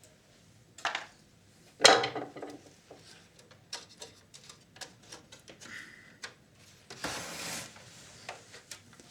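Clicks, knocks and clatter of small tools and plastic and metal parts being handled while a VCR is taken apart, with a loud clatter about two seconds in and a short scraping rustle near the end.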